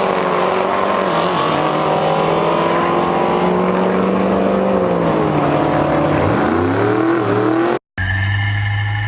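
Diesel pickup truck engine running hard at a drag strip. The engine note holds high for several seconds, then falls and climbs again near the end. It is followed by a sudden cut to another engine running at a steady pitch.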